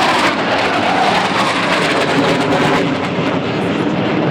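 Loud, steady jet roar of a Panavia Tornado GR4 flying a display pass.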